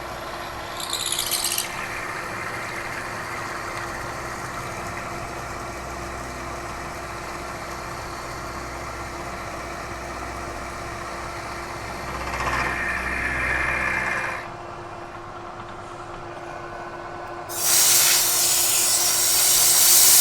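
Bridgeport milling machine running with a corncob roughing end mill cutting metal, the cut growing louder briefly about a second in and again around twelve seconds in; the low hum drops out about fourteen seconds in. Near the end a loud, steady hiss of compressed air blowing on the cut starts suddenly.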